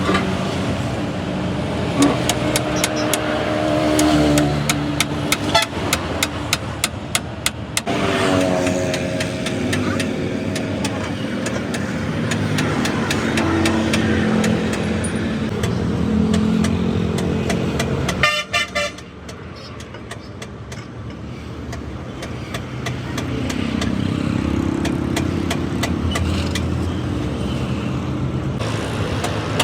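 Busy road traffic: vehicle engines running and horns honking, with stretches of rapid sharp knocks.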